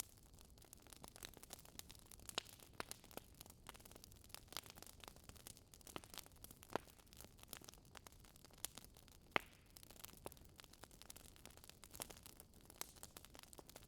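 Wood fire crackling in a fireplace: irregular sharp pops and snaps over a faint hiss, the loudest about seven and nine seconds in.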